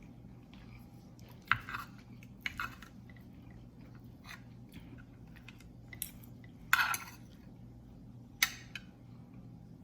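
Spoon and fork clinking and scraping against a plate while eating, four or five sharp strokes a second or more apart, with soft chewing between them.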